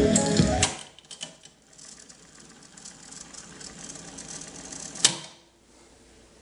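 Background music cuts off. Then the Kenwood KX-830 cassette deck's tape transport makes a couple of small clicks and a faint steady whir that slowly grows louder, ending in one sharp click about five seconds in.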